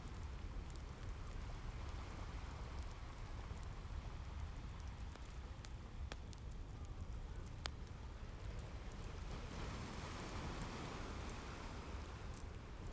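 Wood fire crackling with scattered sharp pops over a steady low rumble of ocean surf; the wash of a wave swells up again near the end.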